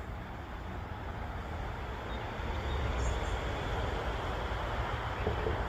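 Strong wind blowing across the microphone ahead of an approaching storm front: a steady rushing noise with a deep rumble, swelling slightly midway.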